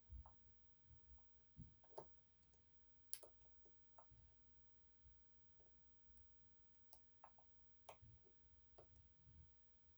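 Faint, irregular clicks and light taps of a short flat hook working the unsprung sliders inside an EVVA 3KS security lock cylinder while a tension wrench holds the plug. The loudest click comes a little after three seconds, with soft low thuds in between.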